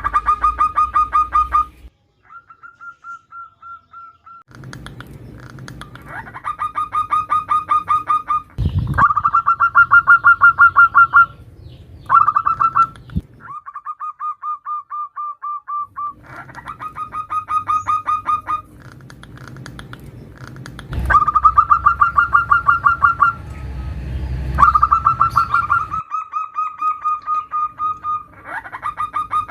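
Zebra dove (perkutut) calling: repeated bouts of rapid, staccato cooing trills, each a fast run of pulsed notes, with short pauses between bouts. Put forward as a female's call to draw males to answer. A brief low thump about nine seconds in.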